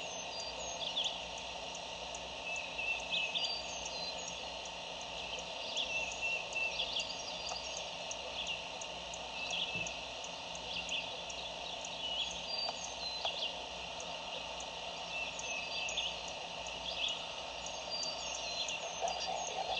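Woodland songbirds chirping in short, high notes scattered throughout, over a steady outdoor background hiss.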